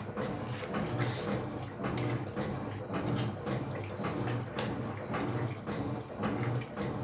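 Electrolux LF75 top-load washing machine agitating a load in water: a low motor hum swelling and falling in an even rhythm about twice a second as the agitator turns back and forth, with water sloshing.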